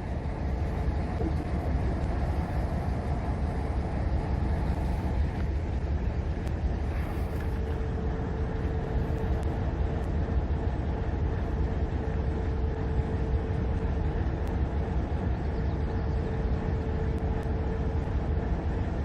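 Diesel locomotive idling: a steady deep engine rumble, with a steady mid-pitched hum that comes in about seven seconds in and stops near the end.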